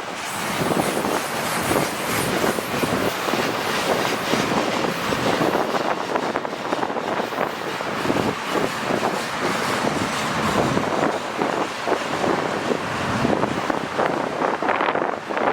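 Freight train rolling past, its steel wheels rattling and clicking over the rails in a steady stream.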